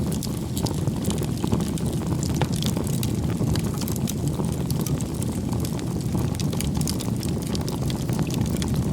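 Wood campfire burning: a steady low rush of flame with many small crackles and pops of burning wood throughout.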